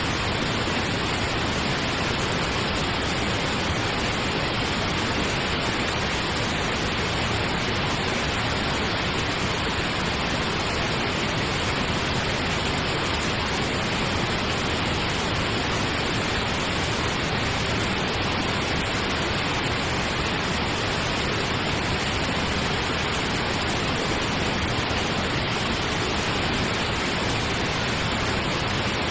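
Steady pink noise: an even, unchanging hiss like a distant waterfall, with no breaks or changes.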